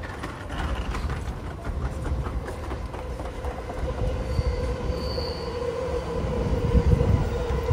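Electric commuter train running on the rails, a low rumble with a steady high wheel squeal, growing louder toward the end.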